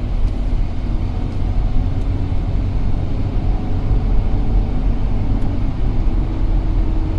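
2008 Cadillac SRX's 3.6-litre V6 running under way, with a steady low rumble of engine and road noise heard from inside the cabin, its variable valve timing phasers now being commanded to move.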